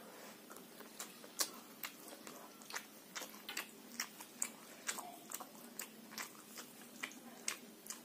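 A person chewing a mouthful of hand-eaten rice, with sharp wet mouth clicks coming about two or three times a second.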